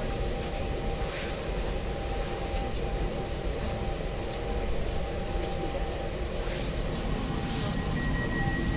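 Passenger saloon of an ŁKA 36WEd electric multiple unit running along the track: a steady low rumble of wheels and running gear, with a thin steady high whine starting near the end.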